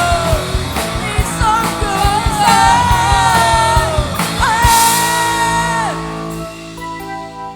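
Live rock band playing, with a male lead vocal singing over drums and a full band. About four and a half seconds in the drums stop and the singer holds one long note to about the six-second mark, then a sustained chord rings on.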